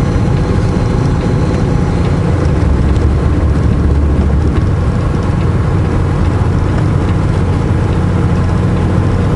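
Semi truck's diesel engine running steadily, heard from inside the cab as a loud low drone with road noise; the deepest part of the rumble drops about four and a half seconds in.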